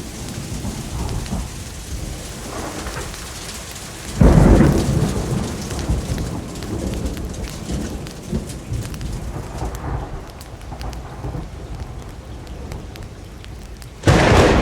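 Steady rain with two sudden cracks of thunder, one about four seconds in and one near the end, each loudest at the start and fading over a couple of seconds.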